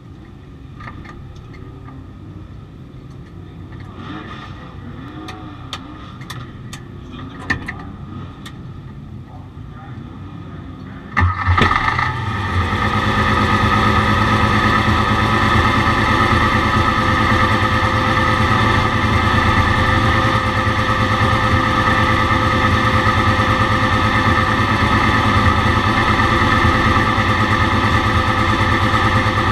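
Porsche 935 race car's turbocharged flat-six engine starting about eleven seconds in, catching at once and settling into a steady idle. Before it there are only a few faint clicks over background noise.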